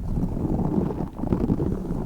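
A tiny spiky Orbeez squishy ball squeezed and rubbed right against the microphone, giving a dense, low, crackly rubbing with short pauses between squeezes.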